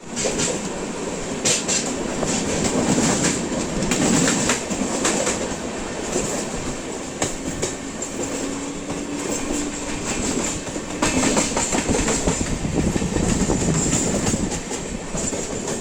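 Moving passenger train running on the rails, with steady running noise and repeated clicks of the wheels passing over rail joints.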